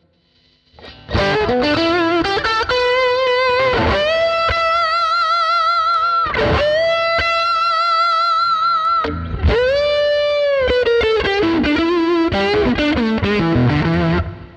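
Electric guitar played through a Fractal Audio FM9 amp-modeler preset, heard direct from the unit. After about a second of quiet, a melodic lead line starts, with long held notes given vibrato and a bend up and back down about two-thirds of the way through.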